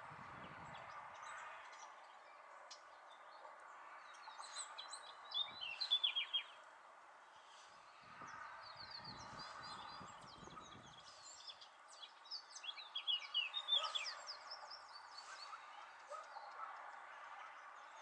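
Small birds chirping and twittering in quick runs of short, falling notes, loudest in two bouts about five seconds and thirteen seconds in, over a faint steady drone.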